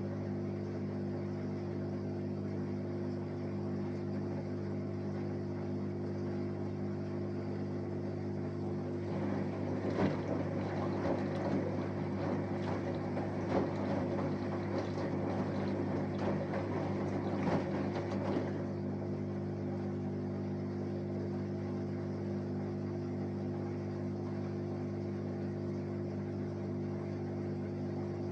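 Samsung Eco Bubble 6.5 kg washing machine with an inverter motor running a wash cycle: a steady hum, with a louder, noisier stretch of churning from about a third of the way in to about two-thirds through.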